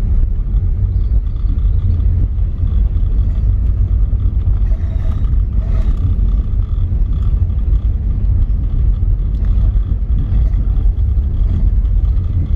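A vehicle driving on the road, heard as a steady low rumble of engine, road and wind noise.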